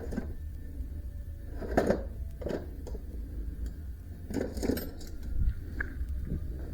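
Irregular clicks, knocks and scrapes of hand work on a band sawmill during a blade change, over a steady low rumble.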